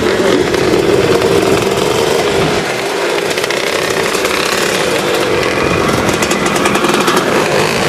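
Classic motocross motorcycle engines running, a steady, loud engine buzz.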